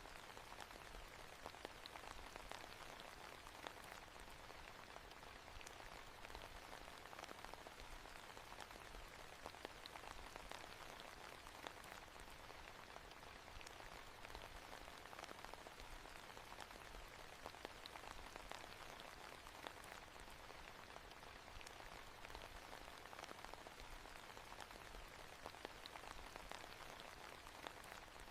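Faint, steady rain ambience: an even hiss of falling rain with many small drop ticks scattered through it.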